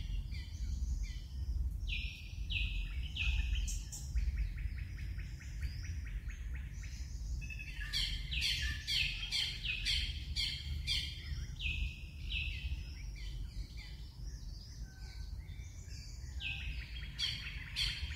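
Wild birds calling in the trees: bursts of quick, falling chirps, with a fast, even trill from about four to seven seconds in. A steady low rumble runs underneath.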